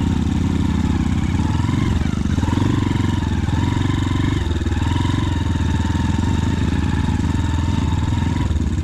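Motorcycle engine running steadily, its pitch rising and falling gently as the throttle changes.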